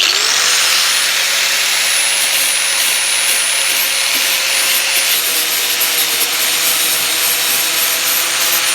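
Angle grinder with a sanding flap disc running and grinding down welded plastic seams on a car bumper, a steady high whine over loud rasping. It spins up at the start.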